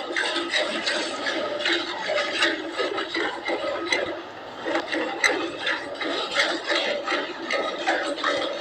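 Buffalo being milked by hand: repeated streams of milk squirting into a pail, going on without a break.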